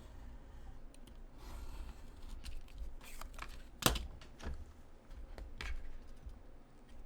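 Small handling sounds of hands working small craft materials: scattered light clicks and rustles, with one sharp click about four seconds in.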